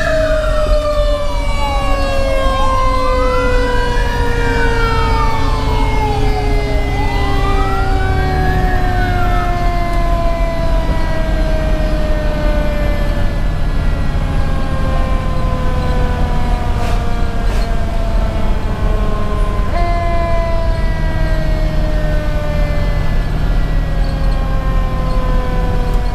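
Fire engine's sirens heard from inside the cab over its Detroit Series 60 diesel. An electronic siren wails up and down three times in the first nine seconds or so, while the Federal Q2B mechanical siren slowly winds down in pitch. The Q2B is spun back up briefly about two-thirds of the way in and then coasts down again.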